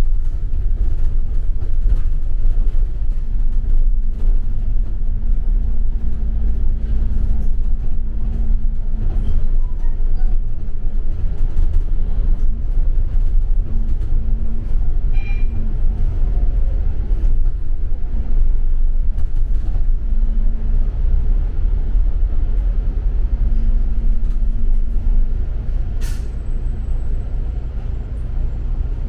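Double-decker bus running, heard from on board: a steady low engine and road rumble with a hum that comes and goes. Near the end there is a sharp click followed by a faint high tone.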